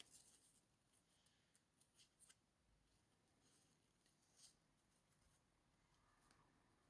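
Near silence with faint paper handling: a few soft rustles and light clicks as papers are moved about.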